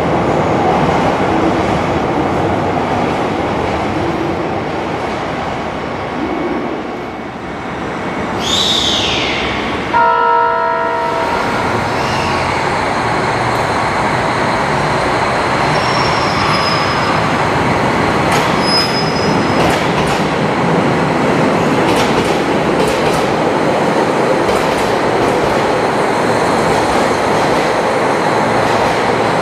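Train running through the station with steady rail and motor noise, a brief wheel squeal falling in pitch about eight seconds in, and a short horn blast about ten seconds in.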